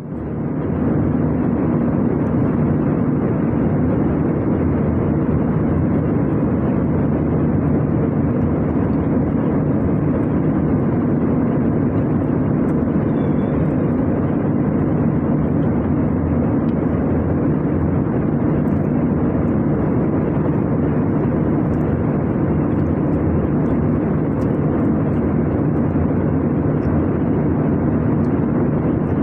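Steady cabin noise inside an Airbus A320 in flight: the even rush of air and drone of the jet engines, unchanging throughout, with a low hum under it.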